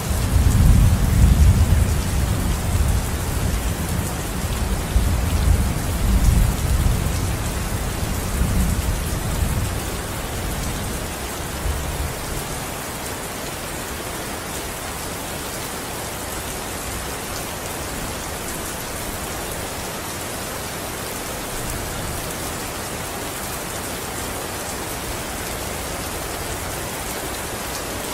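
Steady rain falling, with a long roll of thunder that breaks in at once, rumbles for about ten seconds and fades away. A fainter low rumble comes again a little past the middle.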